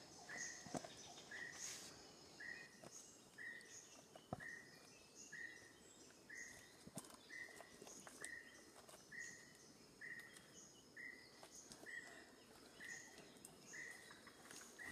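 Faint rainforest animal call: a short, slightly falling note repeated evenly about twice a second, with a few faint taps mixed in.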